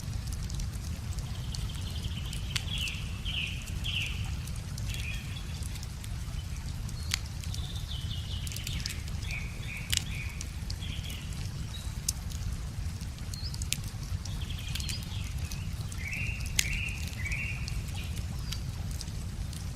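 Wood fire crackling with scattered sharp pops, while birds sing short repeated phrases in three bouts, over a steady low rush of river water.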